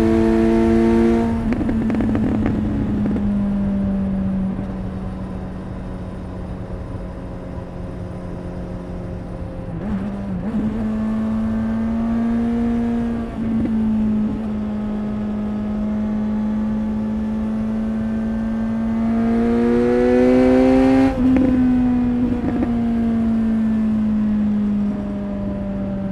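Exhaust of a Suzuki GSX-S 750's inline-four engine on the move, holding a steady note for long stretches. The pitch rises and falls a few times. About two-thirds through it climbs, breaks off sharply as the revs drop, and settles back to a lower steady note.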